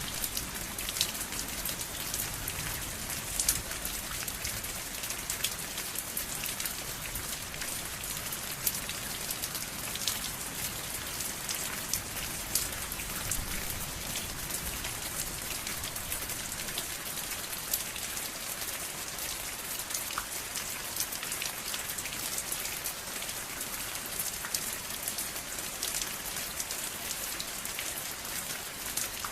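Steady rain falling, with many individual drops pattering on a surface throughout.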